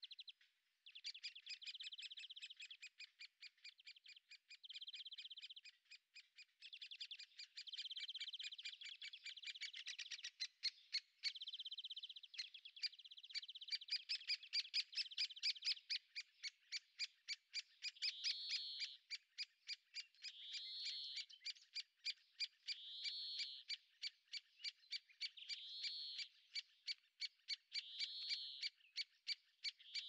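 Birds calling: a steady run of short, sharp clicking notes, about four a second, under a held, whistle-like note that repeats every two to three seconds.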